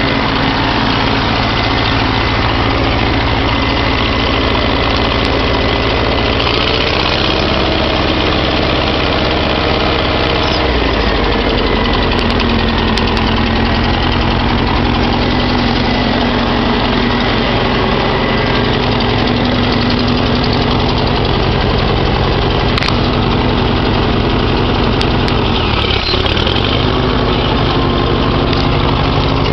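1956 Farmall Cub's four-cylinder flathead engine idling steadily as it warms up after a cold start; its note shifts about ten seconds in.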